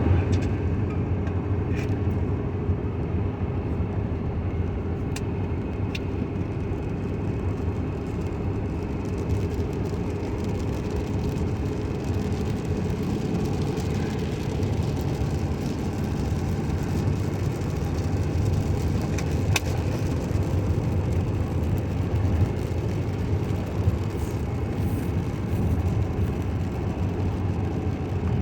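Steady in-car driving noise on a wet road: engine hum and tyre noise, with a few faint ticks.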